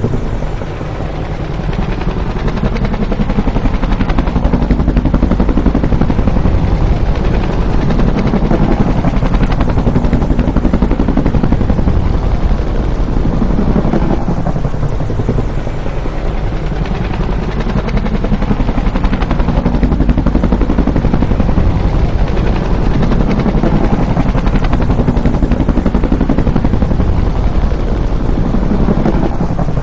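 Bell UH-1 "Huey" helicopter passing by, its two-blade main rotor beating rapidly; the sound swells and eases twice, about fourteen seconds apart.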